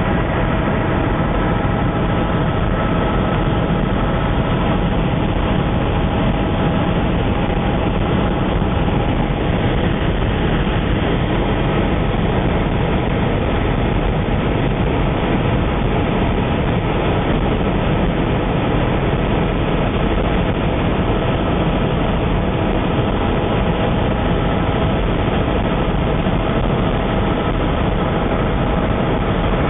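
Steady engine and rotor noise heard from inside a helicopter in flight, a constant loud drone with a faint steady whine.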